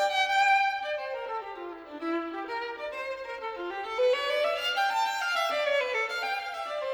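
Violin music: a melody played in quick stepping notes, running down in pitch over the first two seconds, then climbing back up.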